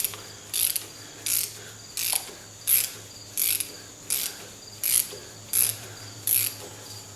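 Ratchet wrench being worked back and forth on a nut, its pawl clicking in a short burst on each return stroke, about ten strokes at a steady rhythm of roughly one and a half a second.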